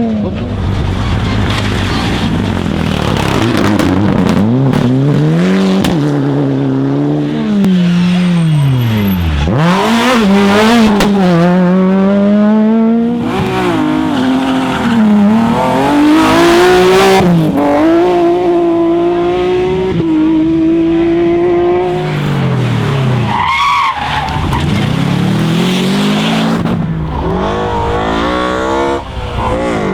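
Rally cars driven flat out on a stage, their engines revving high and climbing in pitch through the gears, dropping sharply at each shift or lift-off. Twice the engine note swoops down steeply as a car goes past, about a third of the way in and again near the end.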